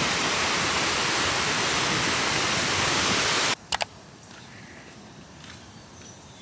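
A loud, steady rushing noise cuts off abruptly about three and a half seconds in. Much quieter background follows, with a couple of sharp clicks just after the cut.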